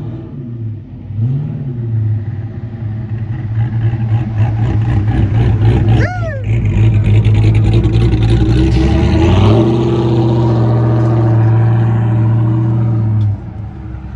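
Truck engine revved hard and held at high revs during a burnout, climbing once more about two-thirds of the way through, then cutting off sharply near the end.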